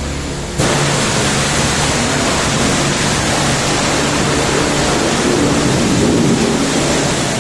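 High-pressure washer spraying water, switching on abruptly about half a second in and then running as a steady, loud hiss, with a low hum beneath.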